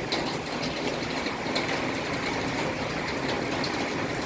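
Steady rainfall in a tropical thunderstorm, an even hiss with a few faint sharp drip ticks.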